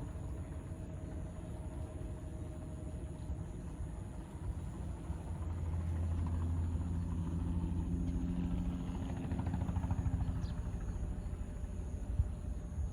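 Crop-spraying helicopter running with a low rumble that grows louder about five seconds in, a steady hum on top as it comes nearer.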